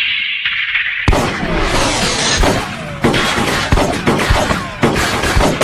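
Anime battle sound effects: a hissing sound for about a second, then a string of gunshots and booms, about seven sharp blasts with a noisy roar between them.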